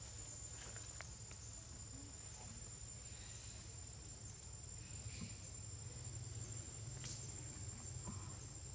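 Faint outdoor ambience: a steady high-pitched insect drone over a low rumble, with a few faint ticks and rustles.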